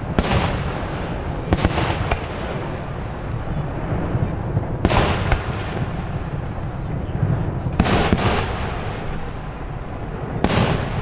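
Aerial fireworks shells bursting: about six loud bangs a few seconds apart, each trailing off in an echo, over a steady low rumble and crackle.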